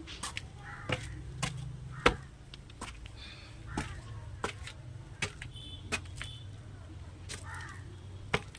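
A few crow caws over a low steady rumble, with many sharp clicks and knocks scattered throughout and a brief high bird chirp about halfway through.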